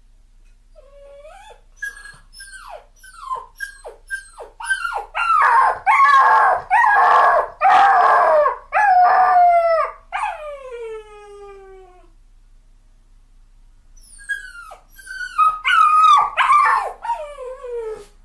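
A dog crying: a string of high-pitched whines that each fall in pitch, building to loud howling cries halfway through and trailing off in one long falling whine. After a short pause, a second, shorter bout of whining cries comes near the end.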